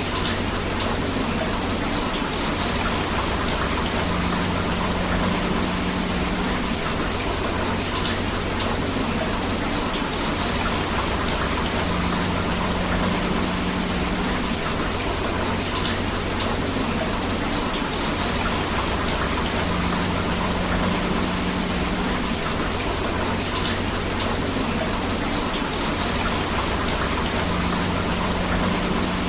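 Steady rain with running river water, an even, unbroken wash of noise. A faint low hum swells and fades about every eight seconds.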